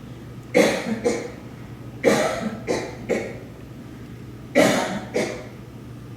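A person coughing: three bouts of two or three coughs each, about two seconds apart.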